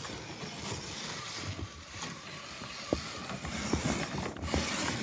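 Radio-controlled crawler trucks driving over snow: steady motor and drivetrain noise with scattered small knocks.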